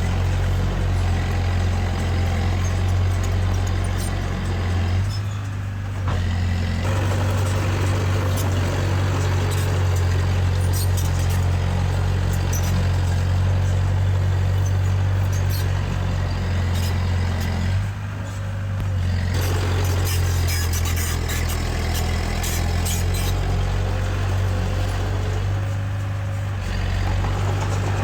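Heavy-equipment diesel engine running steadily under load, with a deep hum. It eases off briefly about five seconds in and again around eighteen seconds, with faint scattered clicks.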